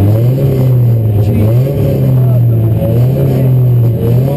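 Rally car engine heard from inside the cabin, running hard at speed. Its revs rise and drop several times as the driver accelerates and changes gear.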